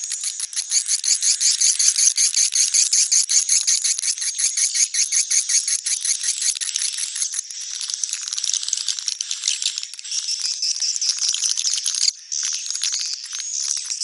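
Swiftlets twittering: a dense, rapid rattling chatter of high calls, giving way about halfway through to looping high chirps, with a brief drop about twelve seconds in.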